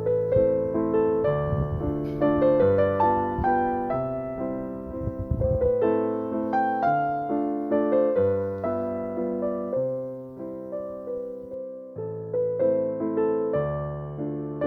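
Background piano music: a steady flow of struck notes and chords, each fading away after it is played.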